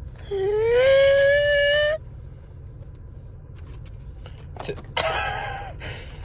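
A drawn-out wailing voice, held for about a second and a half and rising slightly in pitch before cutting off abruptly, followed near the end by a shorter wavering vocal sound.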